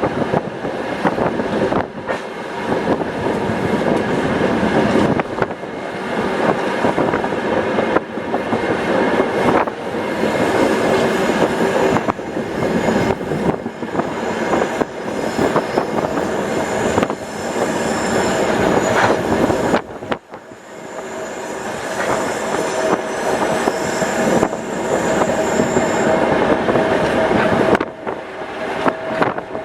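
Passenger train carriage running along the track, heard from inside: a steady rumble with the wheels clicking over rail joints. A thin high wheel squeal comes in over the second half, with a brief drop in the rumble about two-thirds of the way through.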